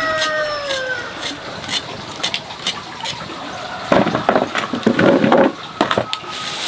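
A rooster's crow trailing off with a falling pitch in the first second, then a run of short, noisy scuffling sounds about four seconds in, with scattered sharp high clicks throughout.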